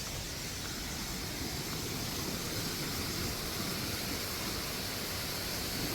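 Waterfall rushing steadily: a constant, even hiss of falling water with no distinct events.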